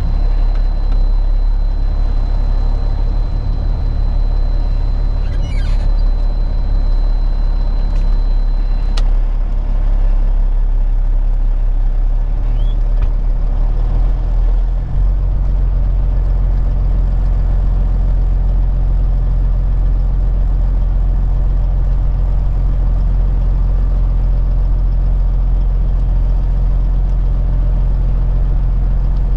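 Peterbilt 379 semi truck's diesel engine running steadily; about halfway through its note shifts and then holds steady. A thin high whine over it cuts off suddenly about a third of the way in.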